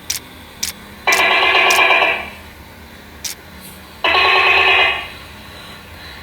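Gecko calls used as a cat-game sound effect: two trilling calls about a second long each, one about a second in and one about four seconds in, with a few short sharp clicks between them.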